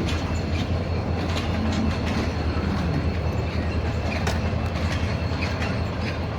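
Passenger train hauled by an HGMU-30 diesel-electric locomotive rolling past: a steady low rumble with the wheels clicking irregularly over the rails.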